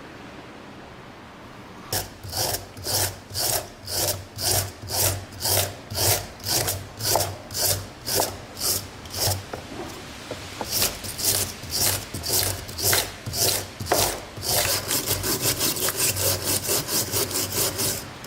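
Back-and-forth hand strokes of an abrasive tool, such as a file or sandpaper, scraping a rusty pair of steel saw set pliers. The strokes come about twice a second, pause briefly in the middle, and quicken to about four a second near the end.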